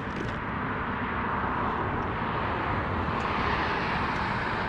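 Steady rush of highway traffic, growing a little louder over the first couple of seconds and then holding.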